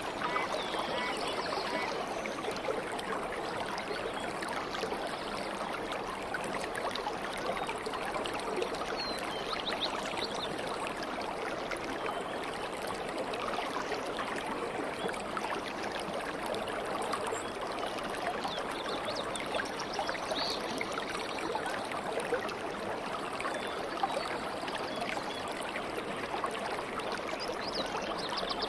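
A stream running and babbling steadily over stones, with a few faint bird chirps now and then.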